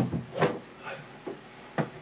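Irregular knocks and short rubbing scrapes, about two a second, as hose is handled and pulled against the wooden framing and floor of a sailboat's bilge.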